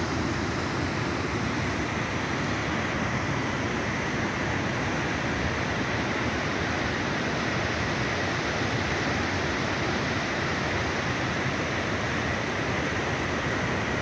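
Mountain stream rushing, a steady, unbroken sound of running water.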